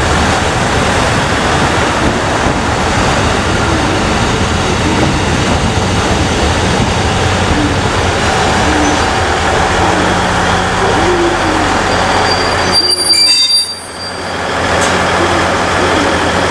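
A train running past close by on the rails, loud and steady, with a short drop in level about thirteen seconds in.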